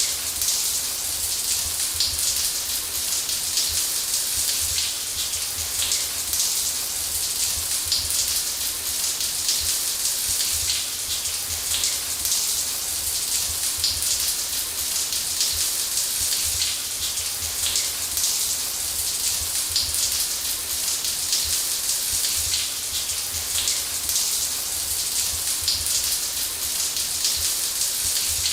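Running shower: a steady, even hiss of water spray pattering onto a surface, with a low rumble underneath.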